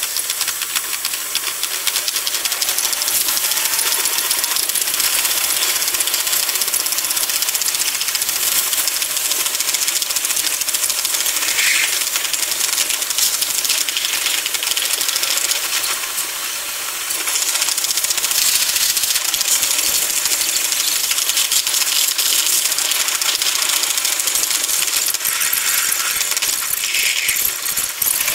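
Train running at speed, heard from on board: a steady rushing hiss with fast rattling, easing briefly about sixteen seconds in.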